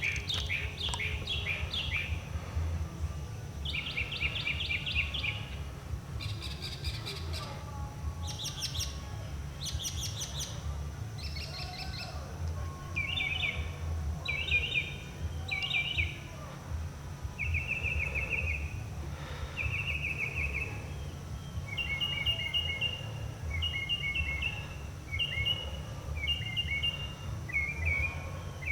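Northern mockingbird singing a string of different phrases, repeating each one several times before switching to the next: fast trilled notes, high rising notes, then paired whistled notes near the end. A steady low background rumble lies under the song.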